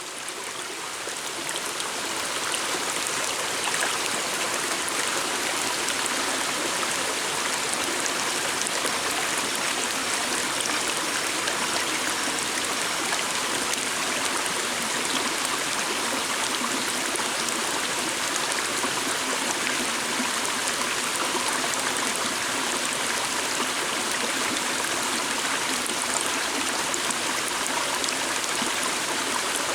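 Steady rushing and babbling of a flowing stream, fading in over the first few seconds.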